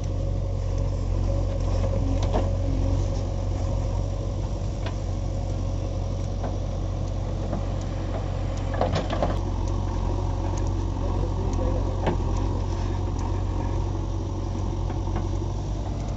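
JCB 3DX backhoe loader's diesel engine running steadily at low revs, with a few short knocks and clanks, the loudest about nine seconds in.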